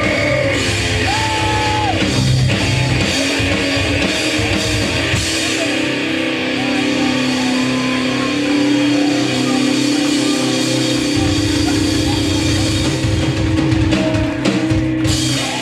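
Hardcore punk band playing live and loud: distorted electric guitar and a drum kit, with vocals.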